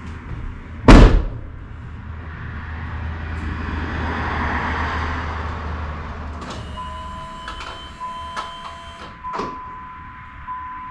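The 2004 Dodge Ram's cab door slams shut about a second in. A few seconds later, steady electronic chime tones sound from the dash, with a few sharp clicks, as the truck is readied to start.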